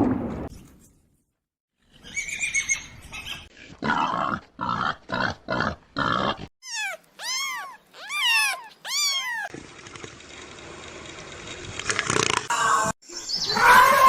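A run of different animal calls, one after another: a string of short calls, then a quick series of arched rising-and-falling cries, then a louder call near the end.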